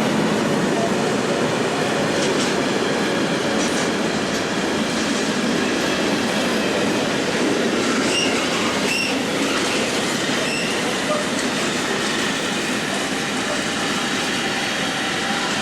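Container freight train rolling past, a steady rumble of wheels on rail, with a few short, high wheel squeals around the middle.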